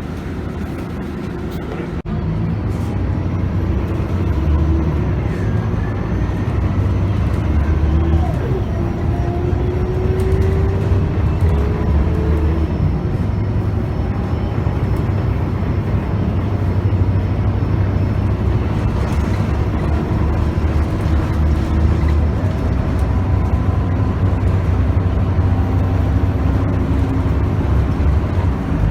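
Scania K280UB bus, its 9.3-litre five-cylinder Scania engine and ZF Ecomat six-speed automatic heard from on board, accelerating under a steady low rumble. A whine rises in pitch again and again, dropping back between rises as the gearbox changes up. The sound gets louder about two seconds in.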